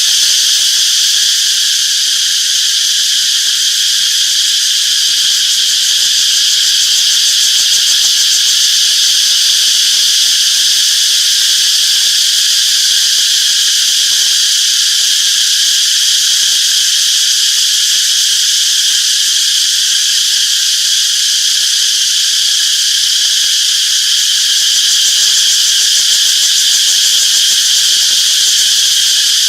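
Chorus of cicadas singing: a loud, continuous high-pitched buzzing drone that holds steady without a break.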